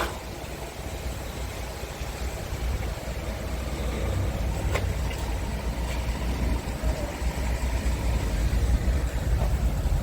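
Scania R500's V8 diesel truck engine idling: a steady low rumble that grows slowly louder, with a sharp click about five seconds in.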